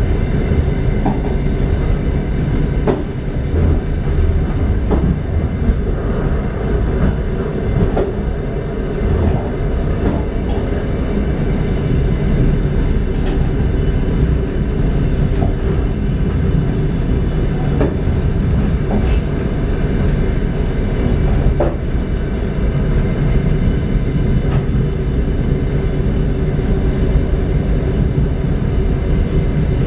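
Train running along the track, heard from inside a carriage: a steady rumble of wheels on rails, with scattered clicks and knocks.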